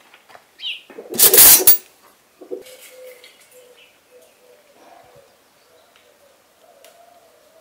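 A short, loud rustling burst about a second in, then a faint, long, low bird call that wavers slightly.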